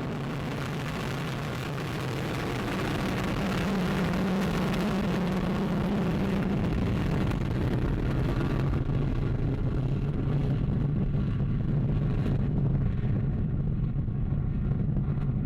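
Vega rocket's solid-fuel first-stage motor firing after lift-off: a steady, deep rumbling roar of noise. About nine seconds in its hiss thins out while the low rumble carries on as the rocket climbs away.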